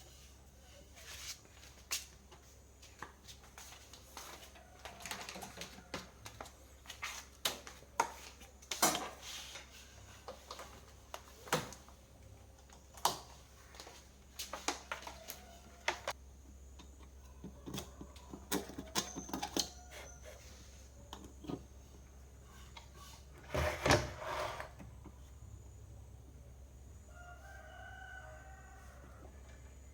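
Scattered clicks and knocks, irregular and unevenly loud, with a louder knock about 24 s in. A few short animal calls sound in between, the last ones near the end.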